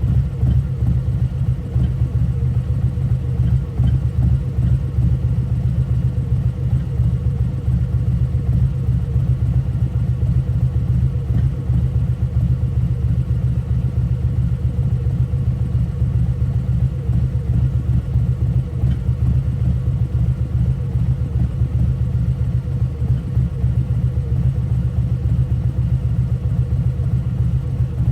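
Harley-Davidson CVO Road Glide's Milwaukee-Eight 117 V-twin, with a T-man 216 cam and CFR slip-on mufflers, idling steadily with a deep exhaust rumble and no revving.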